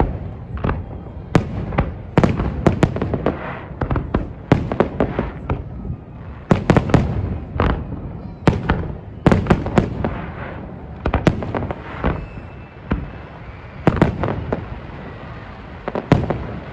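Fireworks display: aerial shells bursting one after another in quick, irregular succession, often several in a tight cluster, each sharp bang trailing off in a short echo.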